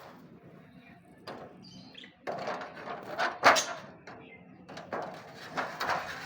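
Budgies chattering: a run of short, scratchy calls starting about two seconds in, loudest about a second and a half later.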